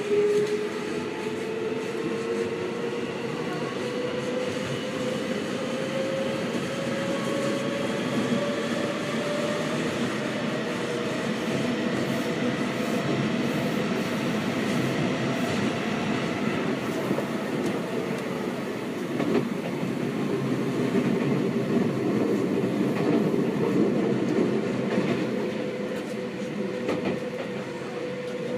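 Seibu 6000 series electric train with Hitachi GTO-VVVF traction control, heard from inside the car while running. A motor tone climbs in pitch over the first several seconds as the train gathers speed, then holds steady above the wheel and rail noise.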